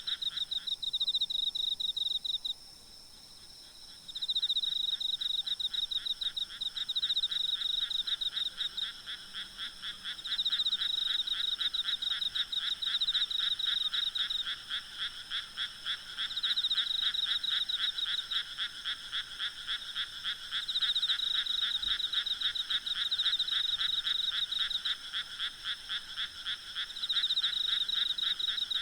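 A night chorus of frogs giving rapid, pulsing croaks in bouts of a few seconds, with a short lull about three seconds in. A faint, steady high trilling of insects runs underneath.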